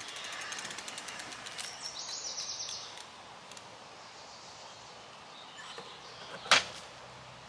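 Outdoor background noise with a short burst of high, rapid bird chirps about two seconds in, and one sharp click near the end.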